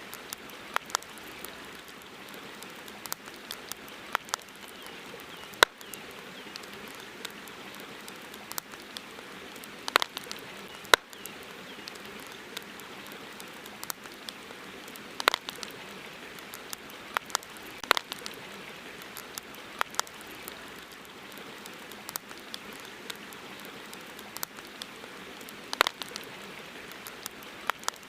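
Wood campfire crackling: sharp, irregular snaps and pops, a few much louder than the rest, over a steady hiss.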